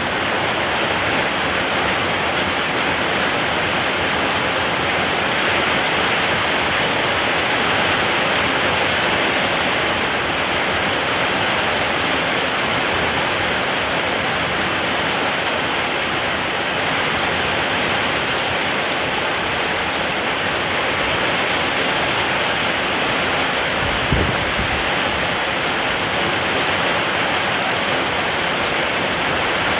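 Steady, heavy rain falling, an even unbroken hiss, with one brief low thump about three-quarters of the way through.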